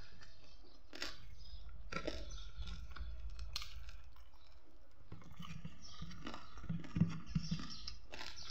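Close-up chewing and mouth sounds of a person eating chicken curry and rice, with scattered small clicks and a few louder soft knocks near the end.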